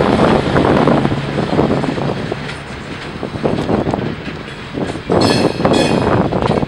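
Freight train cars rolling along the rails during yard switching, a continuous rumble with irregular clanks, and a brief high squeal about five seconds in.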